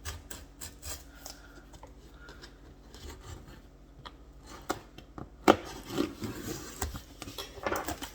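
Cardboard shipping box being opened by hand: quiet scraping, rubbing and clicking at first, then a sharp snap about five and a half seconds in, followed by louder rustling and scraping of the box and its contents.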